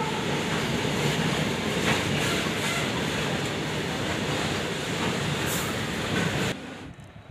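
Steady rumbling noise of a train running past, cutting off suddenly about six and a half seconds in.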